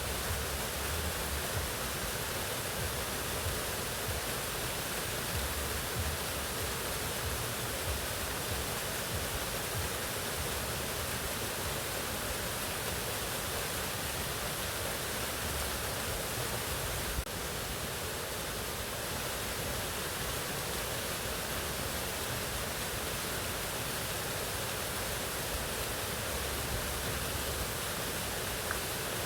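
Mountain waterfall: a steady, even rush of falling water, with a slight click and small drop in level a little past halfway.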